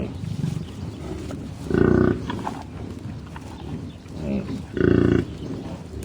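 Cattle mooing: two short, loud calls about three seconds apart, over softer animal noises in the background.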